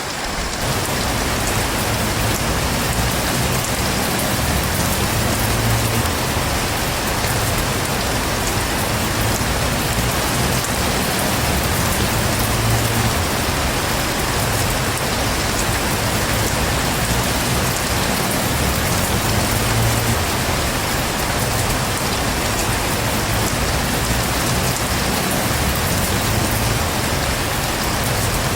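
Heavy rain falling steadily in a continuous downpour.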